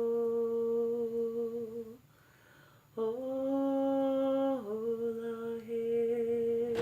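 A woman's voice humming long held notes. The hum breaks for about a second two seconds in, resumes on a slightly higher note, then slides back down to the first pitch about four and a half seconds in.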